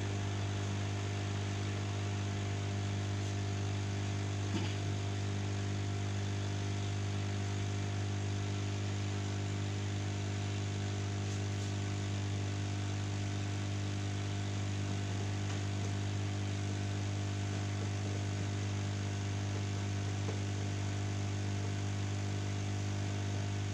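Steady low electrical hum with a pitch near 100 Hz and a stack of overtones, unchanging throughout, with faint hiss and one small tick about four and a half seconds in.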